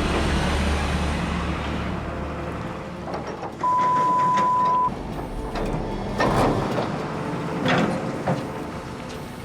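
Excavator engine running low, then a steady one-second censor bleep, followed by a few sharp metal clunks.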